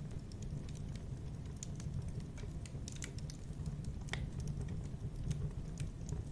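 Fireplace fire crackling: frequent small, irregular snaps and pops over a steady low rumble, with one louder pop about four seconds in.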